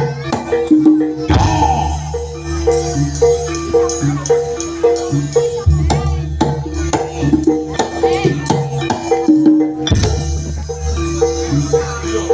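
Javanese gamelan music accompanying a barongan dance: a repeating melody of short struck notes over a low sustained tone, with drums and jingling percussion. Two heavy strokes land about a second in and again near the ten-second mark.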